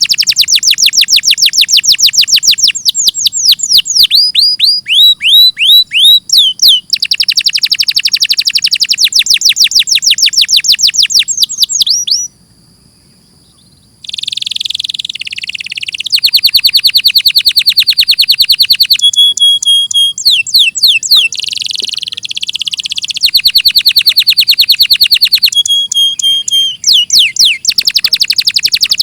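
Domestic canary singing long trills of rapid repeated notes, with some gliding phrases and a pause of about two seconds near the middle.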